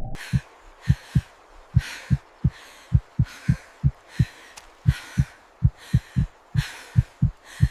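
Heartbeat sound effect: low thumps in lub-dub pairs, about one pair a second, with short hissing bursts between the beats. It starts abruptly.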